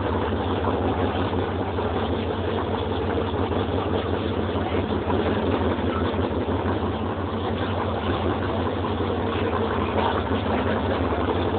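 Car engine idling steadily, a constant low hum with a dense din of background noise over it.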